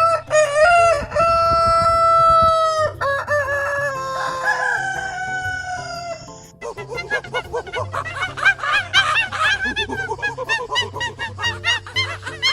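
Rooster crowing. One long held call is followed by a falling call over the first six seconds. From about halfway, chickens cluck in a fast, dense run of short calls.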